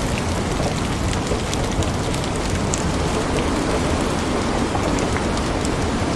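Steady rain falling and drops striking a window, a dense even patter with many small sharp drop ticks through it.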